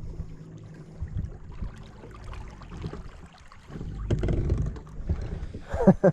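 Bass boat on the river: a low motor hum with wind and water noise and scattered knocks, a louder low rumble about four seconds in, and a brief voice near the end.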